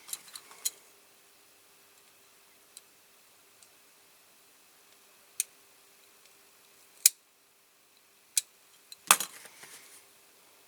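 Sharp, scattered clicks and taps of small hard tools and parts being handled and set down on a workbench, with a louder cluster of knocks near the end.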